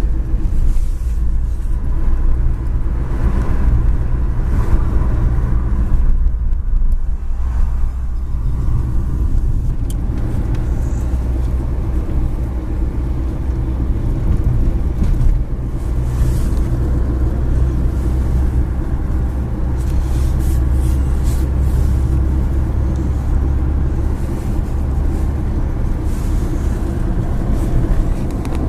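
Car in motion, heard from inside: a steady low rumble of engine and road noise.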